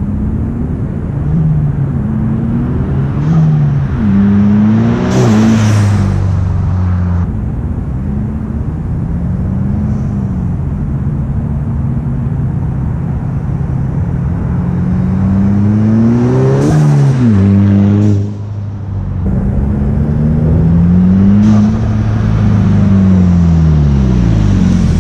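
A turbocharged VW GTI 2.0 TSI accelerating hard past, its engine pitch climbing through each gear and dropping at every shift. Between shifts the blow-off valve vents to the air with a short sharp hiss, twice: about five seconds in and about seventeen seconds in.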